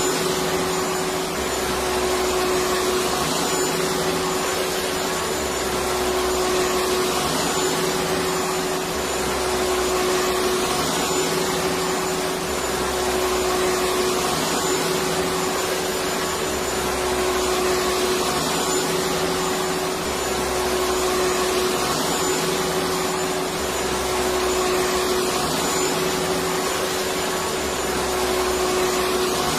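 Electric vacuum cleaner running steadily: continuous air noise over a steady hum, with a low pulse repeating about every two seconds.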